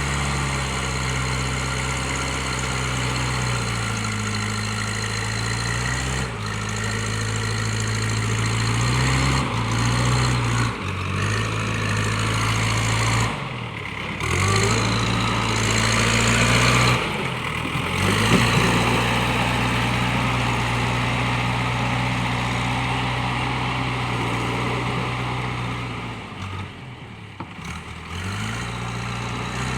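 JCB 3DX backhoe loader's diesel engine running and working, its pitch stepping up and down as the revs change, with brief deep drops in engine speed about 14, 17 and 27 seconds in. A louder, noisier stretch sits on top of the engine between about 12 and 19 seconds.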